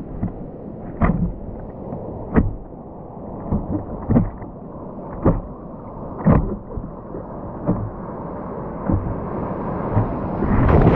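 Wind rumbling on the microphone with a dull thump about once a second; the rush grows louder near the end.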